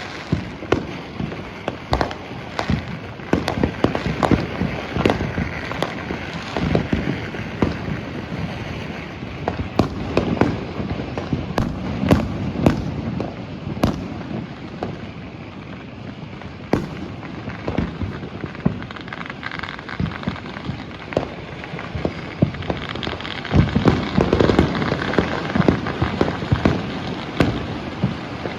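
Fireworks and firecrackers going off continuously: many sharp bangs and booms over a dense crackling, with a heavier cluster of blasts near the end.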